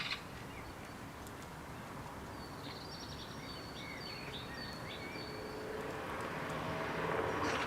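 A small songbird gives a quick series of high, thin chirps in the middle, over steady outdoor background noise. From about six seconds in, a passing vehicle's rush of noise swells up and is loudest near the end.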